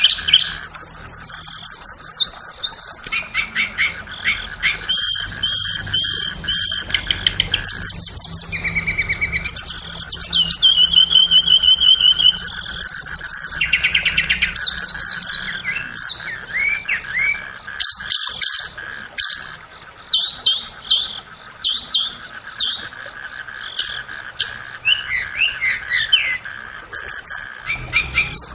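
Tledekan (Cyornis blue flycatcher) singing a fast, varied song of high whistled phrases, trills and chirps, one phrase after another, over a steady faint drone.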